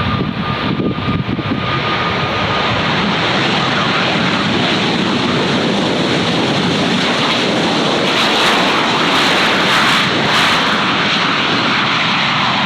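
Airliner's engines roaring as it passes close by. The sound builds over the first couple of seconds, holds loud and steady, and is loudest about two-thirds of the way through.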